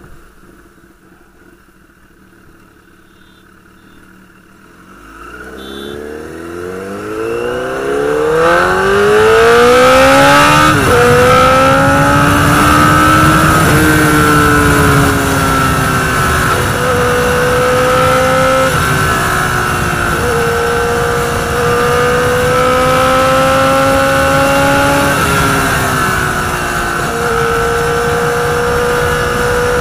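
Honda CBR1000RR Fireblade's inline-four engine, quiet at first, then revving hard from about five seconds in, its pitch climbing steeply until a gear change about ten seconds in. It then runs at high speed, the pitch stepping down and up every few seconds with further gear changes and throttle changes.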